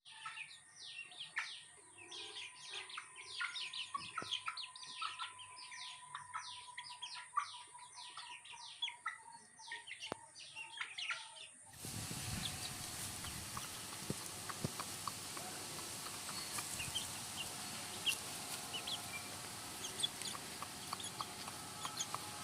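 Aseel chicks peeping: many short, falling cheeps in quick succession. About halfway through, the sound cuts to a steady faint hiss with only occasional cheeps.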